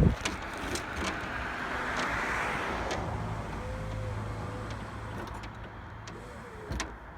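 Battery-powered electric hydraulic pump of a bucket truck's boom running with the truck's engine off, driving the bucket slowly. A knock comes at the start, then a hiss, then a steady low hum begins about three seconds in, with scattered clicks.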